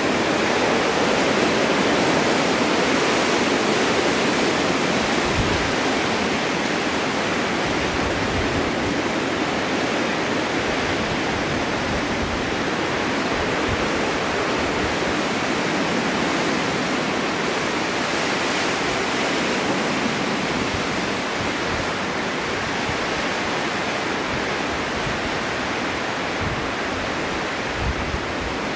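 Strong wind blowing steadily in a snowstorm, a dense even rush that swells and eases slowly, with occasional low gusty rumbles.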